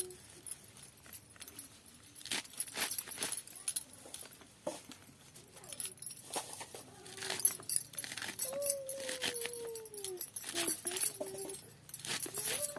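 A dog whining: drawn-out, falling whines about two thirds of the way through, with shorter ones after, over scattered light clicks and knocks.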